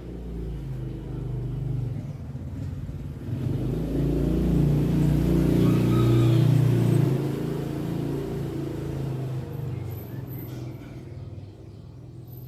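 A motor vehicle's engine rumbling as it passes, growing louder to a peak around the middle and then fading away.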